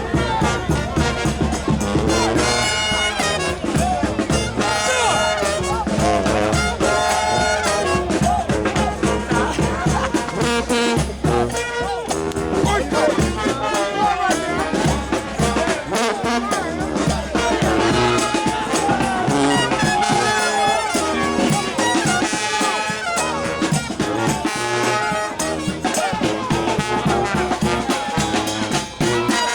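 Brass band playing a New Orleans second-line tune, trumpets and trombones over a steady beat.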